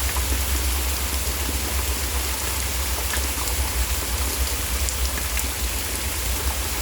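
Steady rain falling, an even hiss with a constant low rumble beneath it.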